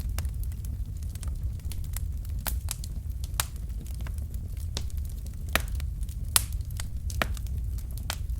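Wood fire in a fireplace: burning logs crackling, with irregular sharp pops over a steady low rumble of the flames.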